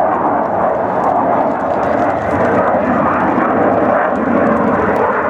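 Jet noise from an F/A-18E Super Hornet's twin turbofan engines during a flying display: a loud, steady rushing noise with no sharp changes.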